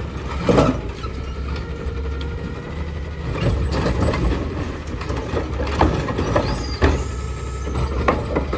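Garbage truck working, its diesel engine running with a steady low rumble, a faint steady whine and several sharp metallic clanks.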